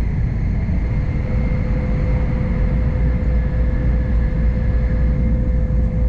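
N700-series Shinkansen running at speed, heard inside the passenger car: a steady, loud rumble and rush of running noise with a faint constant hum over it.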